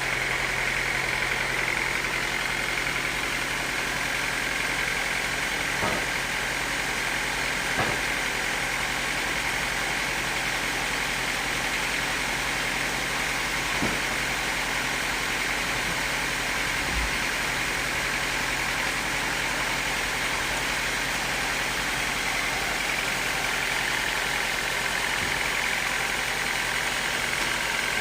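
Sawmill machinery running steadily, a constant mechanical noise with a brighter high hum and a few short knocks.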